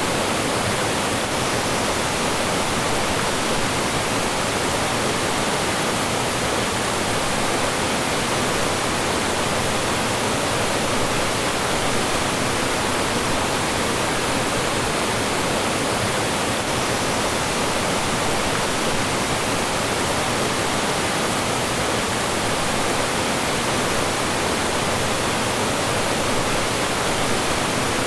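Mountain stream rushing over small falls and rocks: a steady, even rush of water.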